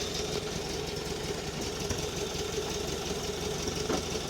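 Engine of a GAZ-69A, a four-cylinder side-valve petrol engine, running steadily at a low, even speed.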